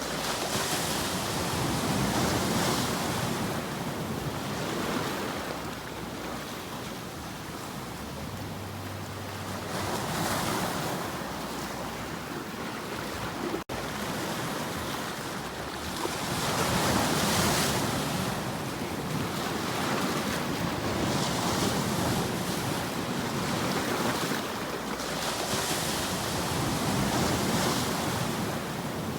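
Ocean waves washing on a shore, swelling and falling back every few seconds, with a brief break in the sound about fourteen seconds in.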